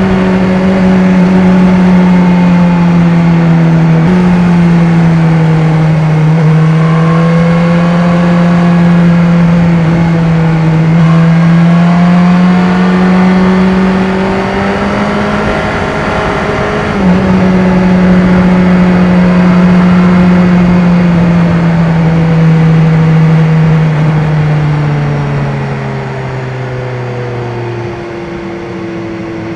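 BMW S1000R's inline-four engine running under steady throttle while riding, its note rising and falling gently with brief jumps about 4 and 17 seconds in. Near the end the note drops lower and quieter as the bike slows.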